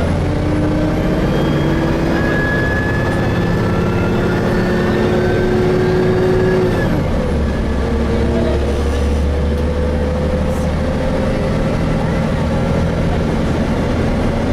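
Gillig Phantom transit bus with a Voith transmission heard from inside, its drivetrain whine rising slowly under acceleration over a steady low rumble. About seven seconds in the whine drops suddenly as the transmission shifts up, then starts climbing again.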